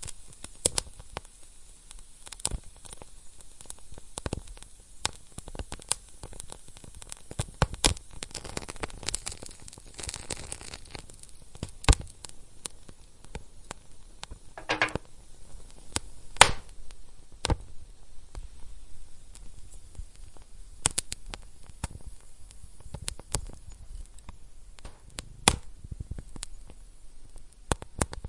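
Wood fire in a fireplace crackling, with irregular sharp pops over a faint hiss, a few louder pops, and a short hiss twice midway.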